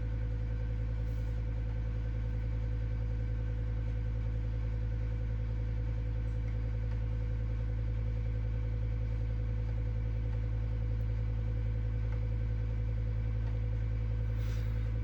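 Steady low mechanical hum with a few fixed tones over it, like a fan or small motor running, unchanging throughout.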